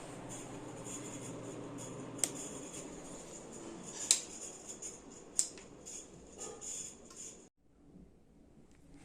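Primavera Tropical ceiling fan running with a steady whir, broken by a few sharp clicks, the loudest about four seconds in. The sound cuts off abruptly about two-thirds of the way through.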